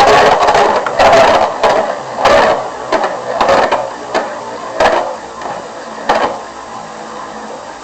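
Two Metal Fight Beyblade spinning tops, MeteoLdrago LW105LF and LightningLdrago 100HF, clashing in a plastic stadium: about nine sharp metal-wheel knocks at irregular intervals over the first six seconds, thinning out, over the steady scrape of the tops spinning.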